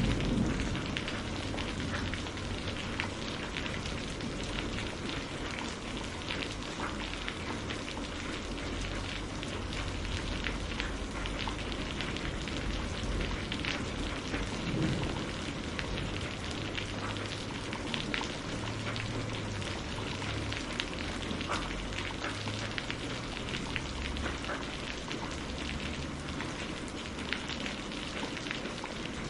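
Steady rain falling on a greenhouse roof, with many small drop ticks through the hiss. The tail of a low thunder rumble fades out in the first second.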